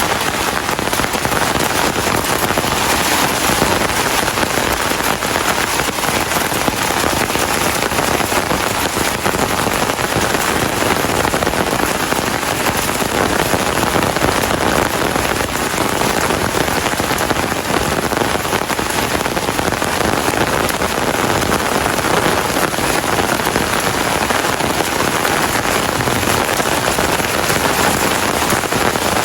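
Steady rain falling and pattering on surfaces, an even, unbroken hiss with dense small drop sounds.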